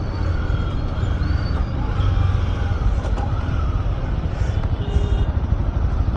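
Honda CB300R's single-cylinder engine running steadily at low revs in sixth gear, heard from the rider's seat with wind and road noise.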